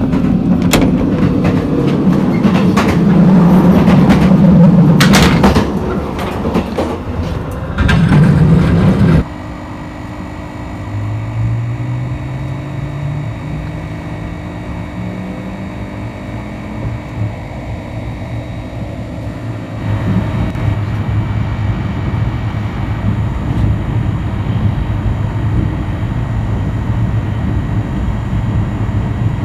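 Electric train running on the rails: a loud rattle with sharp rail clicks for the first nine seconds or so, cut off suddenly. After that, a quieter steady run with a motor whine rising in pitch, as when the train picks up speed.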